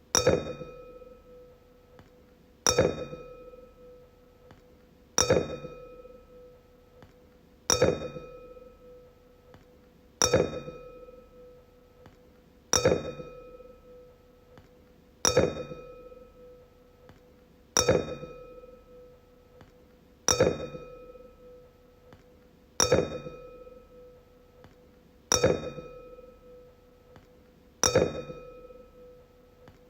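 Wine glass struck again and again, about once every two and a half seconds, each tap giving a clear ringing tone with higher overtones that fades over about two seconds.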